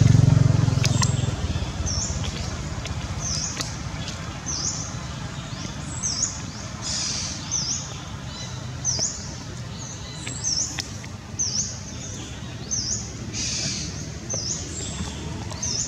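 A bird repeating a short, high chirp about once a second. A low hum fades out in the first second or two.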